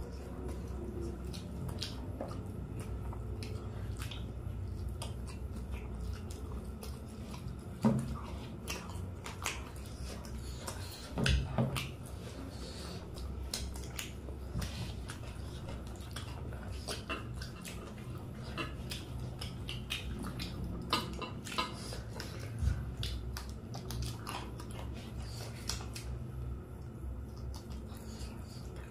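People biting and chewing fried chicken lollipops, with many small clicks and a few louder knocks, about 8 and 11 seconds in, over a steady low hum.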